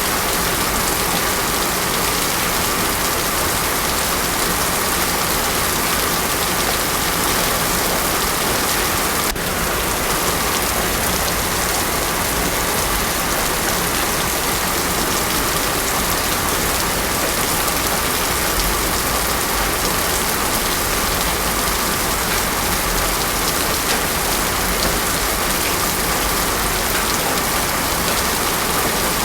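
Heavy rain falling steadily on a road, with no thunder. There is one faint click about nine seconds in.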